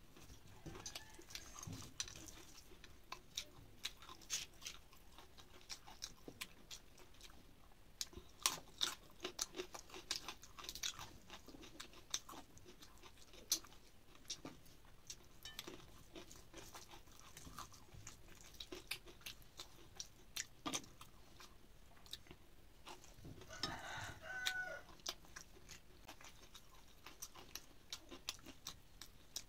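Close-up chewing and crunching of a rice meal eaten by hand, with many sharp mouth clicks and smacks scattered throughout. A brief animal call comes in about three-quarters of the way through.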